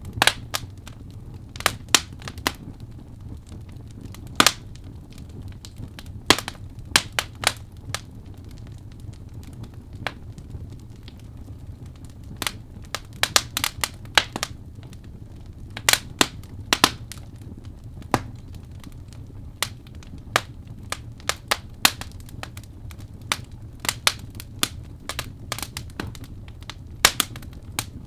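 Fireplace crackling: irregular sharp pops and snaps, sometimes several in quick succession, over a steady low rumble of the fire.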